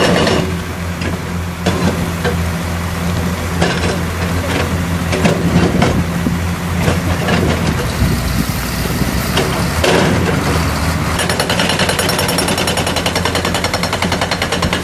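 An excavator's diesel engine runs under load while its hydraulic breaker hammers rock in rapid, evenly spaced blows. Irregular knocks and crunches of breaking rock come in the middle, and the fast hammering returns near the end.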